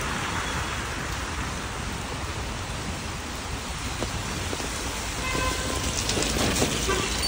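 Steady rain falling on a wet city street, an even hiss throughout. A few faint short horn toots come near the end.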